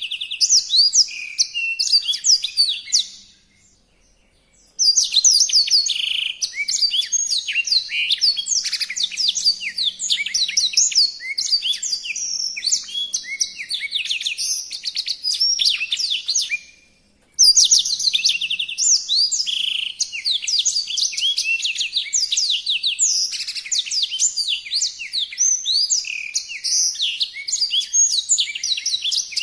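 A songbird singing a fast, continuous stream of high, rapid chattering and sweeping notes. It breaks off twice briefly, about four seconds in and again near seventeen seconds, then resumes just as fast.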